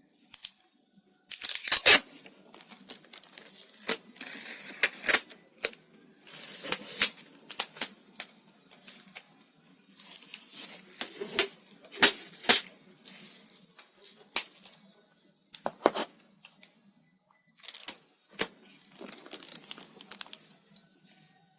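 Sellotape being pulled off the roll in rasping stretches and torn, with sharp clicks and crinkles as it is handled and pressed onto a cut plastic bottle.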